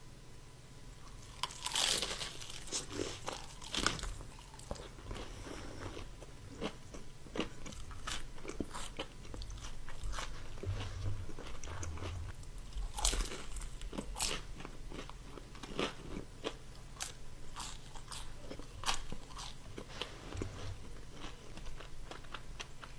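Crunchy food being bitten and chewed close to the microphone: a long run of crisp crunches and crackles, loudest about two seconds in, near four seconds and around thirteen to fourteen seconds.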